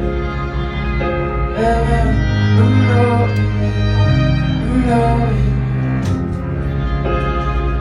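Live rock band music: an instrumental stretch of the song between sung lines, with sustained chords and a melody line that bends in pitch in the middle.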